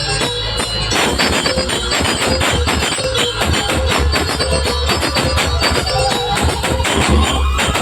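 Loud DJ music on a large sound system: heavy pulsing bass under fast, dense percussion with a jingling, tambourine-like beat. Near the end a higher melodic line rises in pitch.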